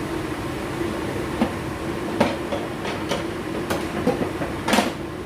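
Spatula clacking and scraping against a wok while garlic and shallots are stir-fried in hot oil: about seven irregular clacks, the longest scrape near the end. A steady low hum runs underneath.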